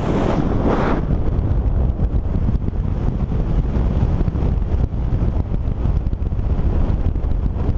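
Wind buffeting the microphone, a heavy uneven rumble, with a broad rushing hiss that is strongest in the first second and then drops away.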